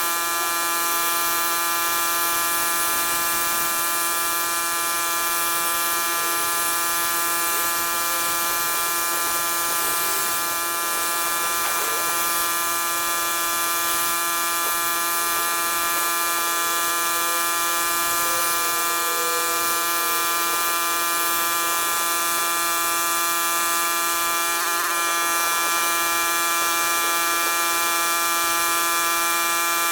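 Pressure washer running steadily: a constant buzzing drone over a high hiss.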